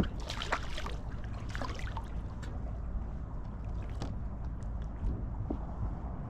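Water lapping and splashing against a kayak hull over a steady low rumble. There are a few short splashy bursts in the first two seconds, then scattered small clicks.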